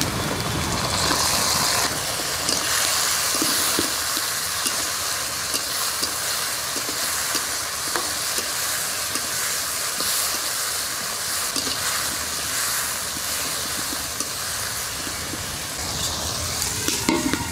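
Chopped tomatoes frying in hot oil with onions and whole spices in a kadai, a steady sizzle that gets louder about a second in as the tomatoes land in the oil. A metal spatula scrapes and stirs against the pan.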